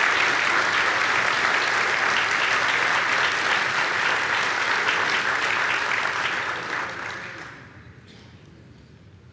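Audience applauding steadily, then dying away about seven to eight seconds in.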